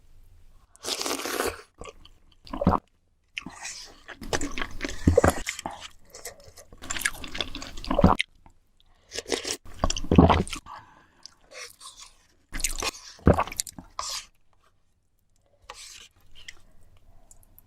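Close-miked chewing and crunching of food, in irregular bursts separated by short pauses.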